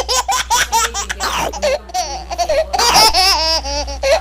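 A person laughing, with a quick run of ha-ha pulses followed by longer, rising and falling laughing calls.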